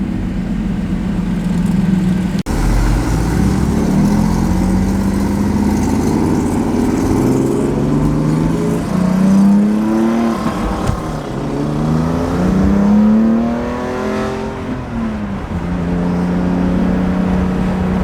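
Car engine and exhaust pulling away and accelerating, its pitch climbing and dropping back at two gear changes, then holding a steady cruise.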